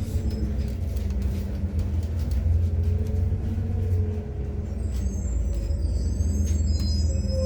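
MAZ-103 city bus running on methane, heard from inside the cabin while moving: a steady low engine drone and road rumble. From about five seconds in, thin high-pitched squeaks and light clicks join it.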